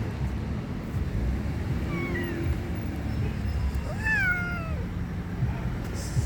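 A cat meowing twice: a short falling meow about two seconds in, then a longer, louder meow that rises and falls about four seconds in, over a steady low background rumble.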